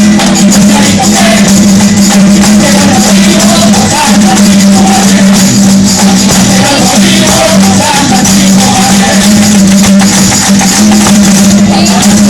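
Live Andalusian folk music, loud and continuous: a wavering sung melody over a steady low held tone, with shaken, jingling percussion.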